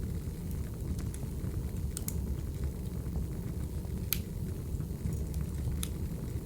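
Crackling wood fire: a steady low rumble of burning firewood with a few sharp pops, the loudest about four seconds in.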